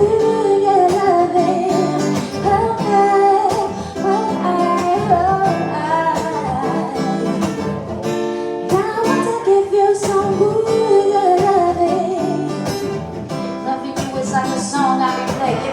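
Strummed acoustic guitar accompanying a singer's voice in a live song.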